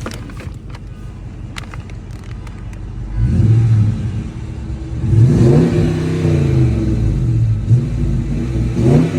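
A 2020 Dodge R/T's 5.7-litre Hemi V8 idling with a low hum, then revved several times from about three seconds in. Its pitch climbs and falls back with each blip, with the biggest rev about halfway through and another near the end.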